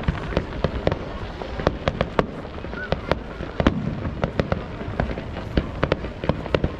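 Fireworks display: a rapid, irregular string of sharp bangs and pops, several a second, over a continuous low rumble of further bursts.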